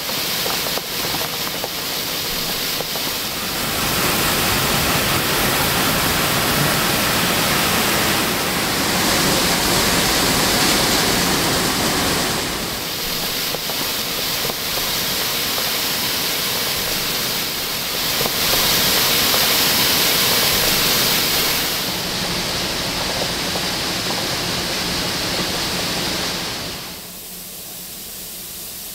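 Harvest machinery working in a maize field: a loud, steady rushing noise with a faint low engine hum, changing in level every several seconds and dropping away near the end.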